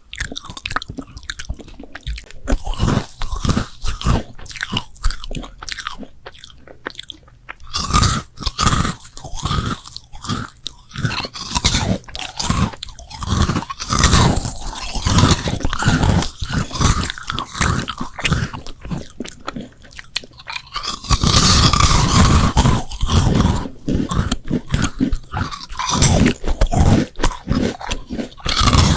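Close-miked eating ASMR: crunchy bites and chewing, one after another with no speech. The texture changes about a third of the way in and again about two-thirds in, where the crunching becomes denser and louder.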